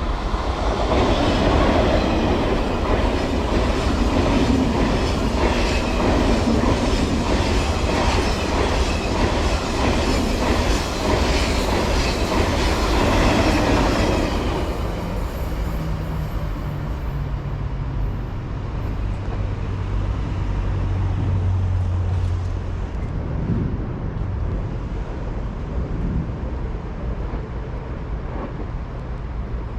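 A passenger train passing close by, its wheels clattering rhythmically over the rail joints. About fourteen seconds in the clatter drops away, leaving a quieter low rumble and hum as the train recedes.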